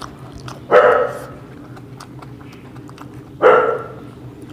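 A dog barking twice, two short loud barks nearly three seconds apart.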